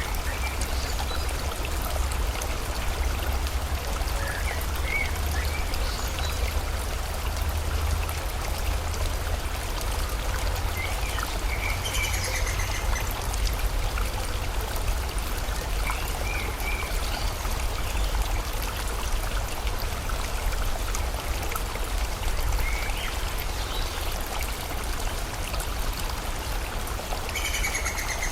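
River water flowing steadily, with a deep low rumble under the rush. Birds chirp briefly now and then, with a cluster of calls about twelve seconds in and again near the end.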